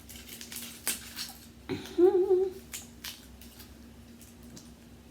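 Someone eating crab legs close to the microphone: a few sharp clicks and mouth smacks, with a short hummed "mmm" about two seconds in, over a faint steady hum.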